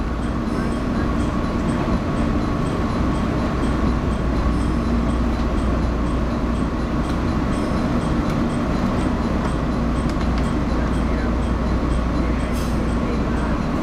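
Steady running rumble and hum of a JR 115-series electric train, heard from inside the cabin as it moves slowly alongside another 115-series train, with a faint regular ticking about twice a second.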